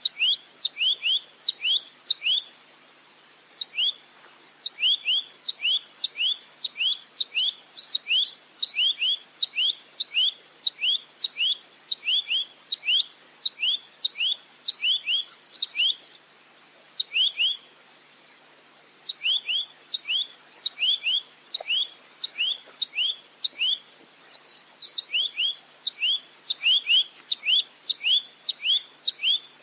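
Nuthatch calling: a long run of sharp, short, falling high notes, about two a second, in series broken by brief pauses, with a few higher chirps mixed in.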